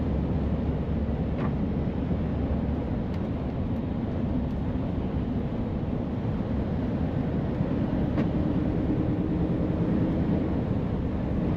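Heavy truck's engine and road noise heard from inside the cab while driving at low speed, steady throughout; a steadier engine note comes in a little past the middle.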